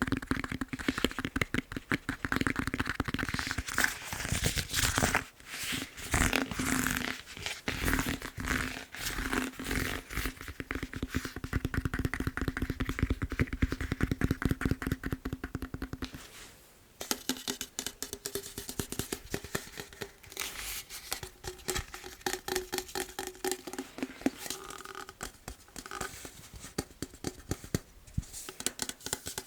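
Rapid fingertip and nail tapping on a foam massage roller, many quick taps a second with a low ring under them. About sixteen seconds in the tapping stops briefly, then resumes with a higher, different ring.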